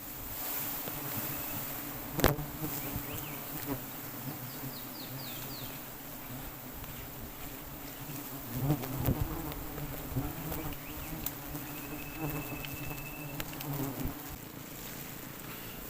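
Swarm of wild honey bees buzzing steadily around their nest as it is cut down from a tall tree. One sharp knock sounds about two seconds in.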